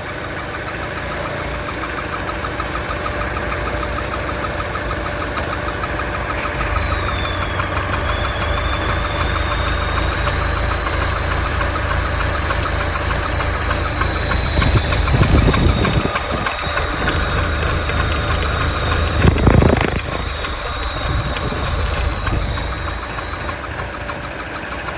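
Opel Meriva B engine running with a rapid clacking and rattling, the noise whose cause the owner is asking about. A thin high whine sits over it from about a quarter of the way in, and the engine gets briefly louder twice in the second half.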